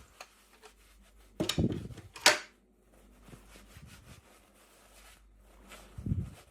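Hands handling toy packaging and small pieces: soft knocks about a second and a half in, a sharp click just after two seconds, and another knock near the end.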